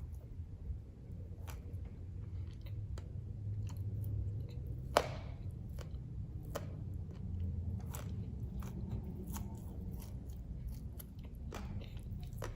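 Dry, hard clay (khawa) being bitten and chewed: irregular crisp cracks and crunches, with one sharp, loud snap about five seconds in.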